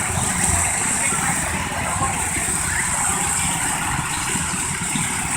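Small garden tractor engine idling steadily, with faint background voices.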